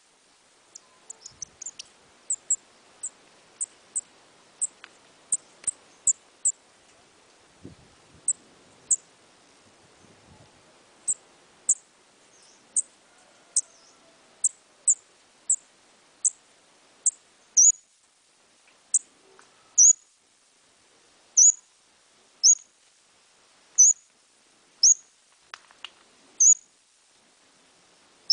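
Small songbird known in Vietnamese as óc mít calling: single short, very high-pitched chirps, each dipping slightly in pitch, about one a second, louder in the second half.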